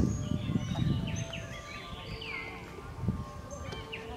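Birds chirping and calling in quick, varied notes, with a low rumble that is loudest in the first second.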